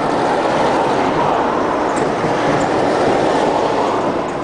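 Steady rushing noise of wind and tyres on an electric golf cart coasting fast downhill with its motor off.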